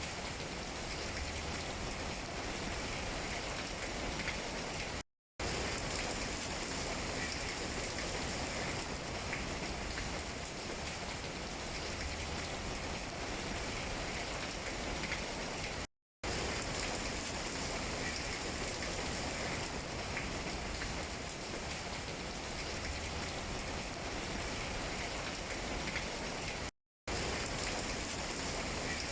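Steady rain falling on tree leaves, an even hiss with fine drop taps. The sound cuts out to silence for a moment three times, about eleven seconds apart.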